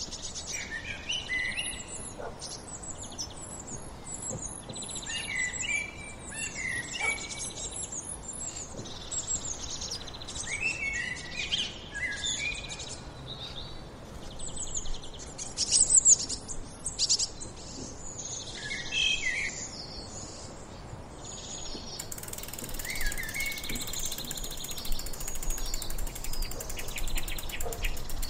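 Several birds chirping and singing at once, short overlapping calls and trills. A fast, even ticking comes in near the end.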